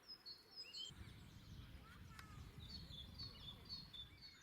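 Faint birdsong: several small birds chirping and trilling, with a faint low rumble from about a second in until past the middle.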